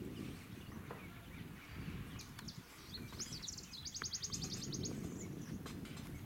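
A bird's rapid trill of evenly spaced high notes, about ten a second, lasting just over a second about three seconds in, with a few chirps just before it. A steady low rumble runs underneath.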